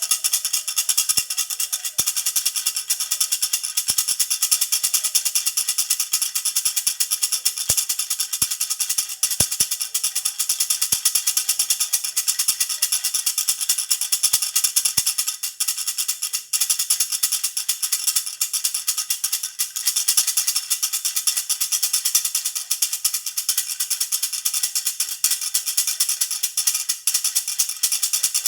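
Jhunjhuna, a baby's rattle, shaken continuously in a fast, even jingle of small metal bits, bright and high with almost nothing low down.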